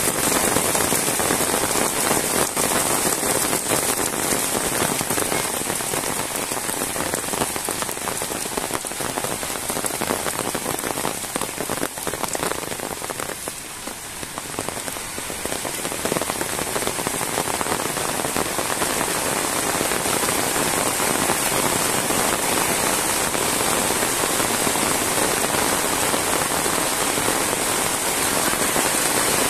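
Heavy rain pouring steadily, with a brief dip in loudness about halfway through.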